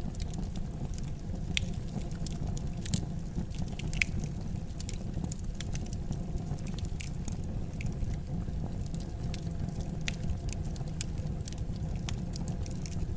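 Wood fire crackling in a fireplace: irregular sharp pops and snaps over a steady low rumble, with one louder pop about four seconds in.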